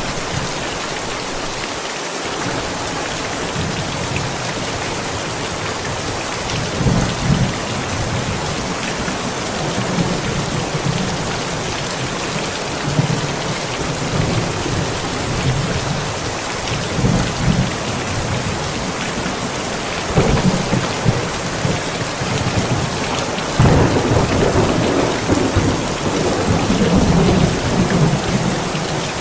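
Steady heavy rain with thunder rumbling several times over it. The longest and strongest roll comes near the end.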